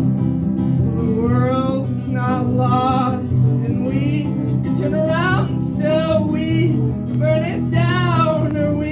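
Live band music: guitar and a melodic line that bends in pitch over a steady, full accompaniment, with no sung words.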